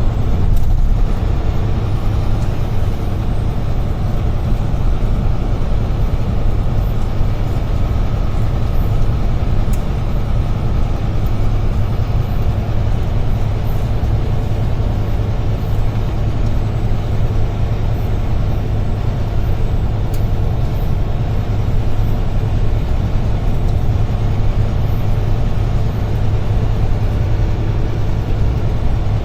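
UD Trucks Quon heavy truck driving, heard from inside the cab: a steady low engine drone with road noise.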